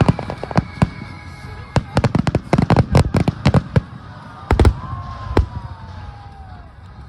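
Fireworks shells bursting in a rapid barrage of sharp bangs and crackles, thickest about two to four seconds in, with a last few heavy bangs about four and a half seconds in, then thinning out. Music plays from loudspeakers underneath.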